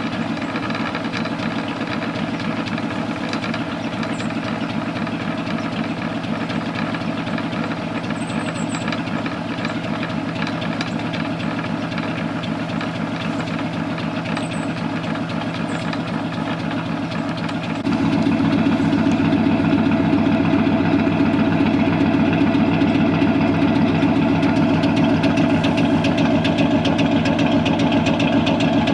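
Chevrolet Silverado pickup engine idling just after a cold start, its exhaust putting out a steady stream of pops. About eighteen seconds in, it gets noticeably louder and fuller and stays that way.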